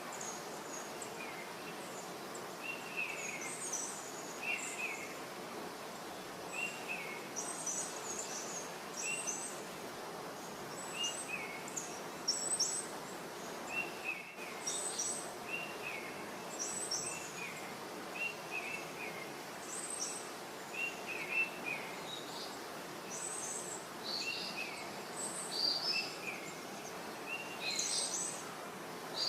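Small birds chirping over and over, short notes about once a second, with a lower voice and a higher, sharper one, over a steady background hiss.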